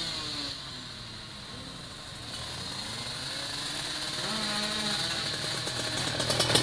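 Two-stroke drag bike engines: one falls in pitch and fades just after the start, then another grows louder and revs hard, with a rapid crackling pulse near the end.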